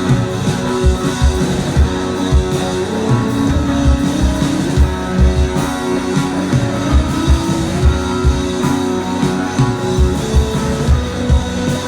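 Live rock band playing: sustained electric guitar notes over bass, with a steady drum beat.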